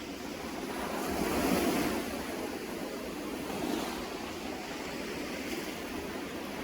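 Sea waves breaking and washing on the shore, a steady rush that swells louder about a second and a half in and again briefly near four seconds.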